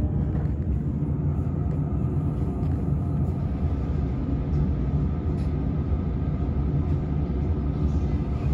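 Steady low rumble of a commuter electric train running, heard from inside the passenger car.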